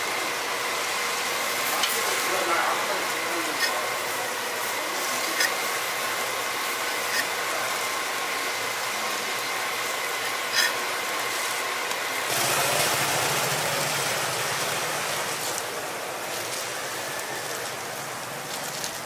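Hotteok frying on a griddle: a steady sizzle with a few sharp clicks. About twelve seconds in, a louder, deeper noise joins it for a few seconds.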